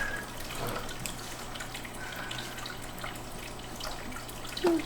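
Quiet room noise: a low steady hum under faint scattered light ticks and taps, with a child's voice starting right at the end.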